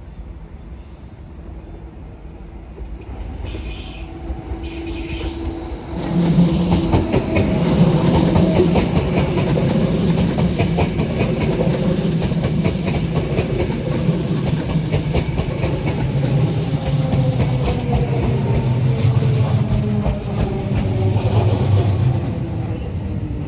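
Vienna S-Bahn electric multiple unit running through the station at close range: rail rumble and wheel clatter with the humming, gliding tones of its electric traction motors. It grows louder over the first few seconds, is loud for most of the stretch, and eases near the end.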